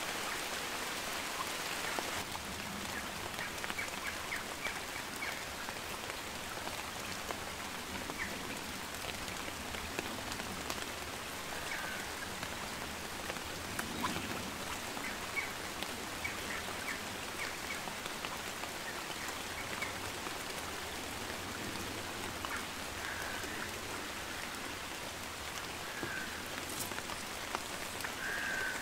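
Heavy rain falling steadily on a river and the bankside leaves: a dense, even patter of raindrops.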